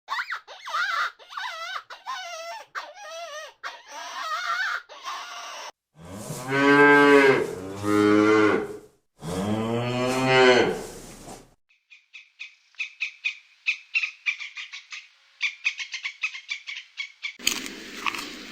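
Cow mooing: three long, low calls in a row about six seconds in, the loudest sound here. Before them comes a run of short, wavering high-pitched calls, and after them a fast series of short high chirps.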